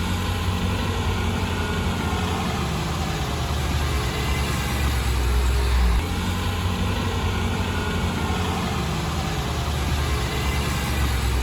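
Heavy diesel engine of earthmoving machinery running steadily, with an abrupt change in its deep low note about six seconds in.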